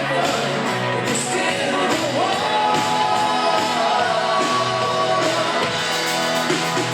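Yacht rock band playing a soft-rock song with a lead vocal. A singer holds one long note a couple of seconds in.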